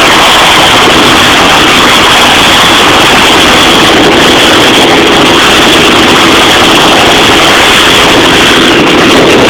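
Helicopter running close by: very loud, steady rotor and engine noise with a steady high whine.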